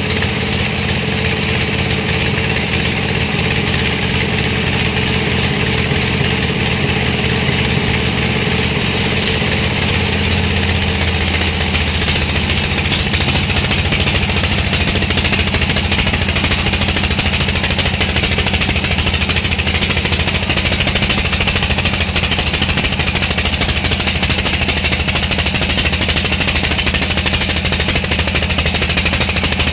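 Engine-driven sawmill machinery running steadily. About eight seconds in, a harsher, brighter noise joins the engine note and carries on.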